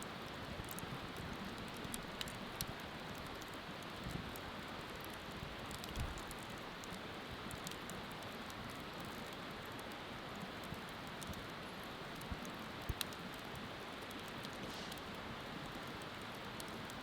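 Wood bonfire crackling, with scattered sharp pops of burning wood over a steady rushing hiss of flowing river water.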